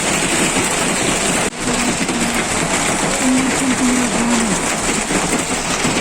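Hail and heavy rain pelting down: a dense, steady clatter that cuts out briefly about one and a half seconds in.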